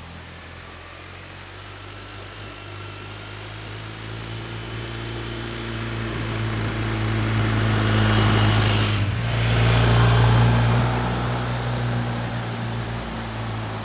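Motorcycle engine approaching and passing by: its steady tone grows louder, peaks about nine seconds in, then fades away.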